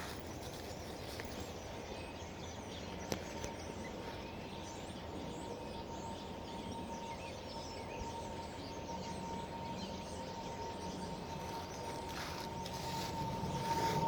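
Many small birds chirping and singing in woodland over a steady background hum. A single held tone runs through it and grows louder toward the end.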